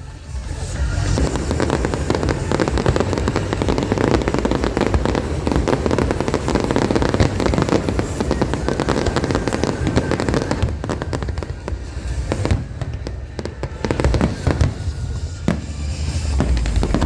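Aerial fireworks display: dense rapid crackling and popping from bursting shells over deep low booms, busiest in the first two-thirds and thinning out toward the end.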